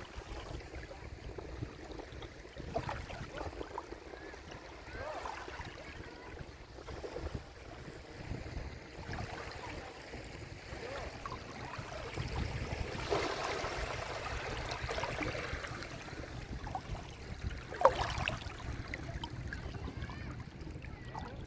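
Small sea waves washing onto the shore, swelling for a few seconds past the middle, with a sharp splash or knock near the end and faint distant voices of people playing in the water.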